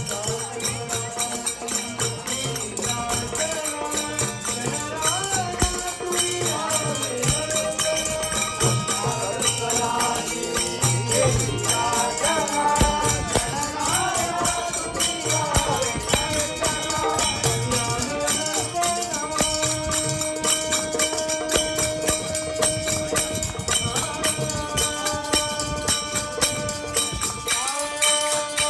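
Marathi devotional bhajan: a man sings with harmonium accompaniment over a steady jingling percussion rhythm. Notes are held long near the end.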